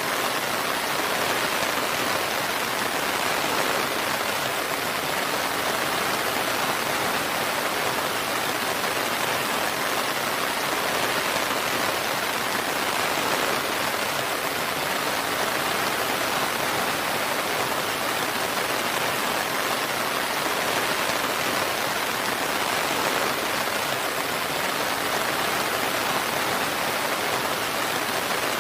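Steady rain falling, an even hiss with no thunder and no changes in strength.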